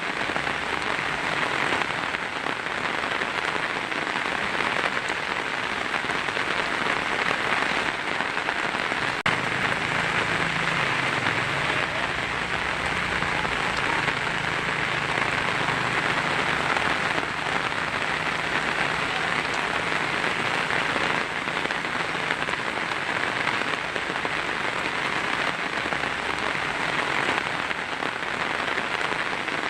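Heavy rain drumming steadily on a tin roof. A low rumble sits under it from about nine seconds in until past the twenty-second mark.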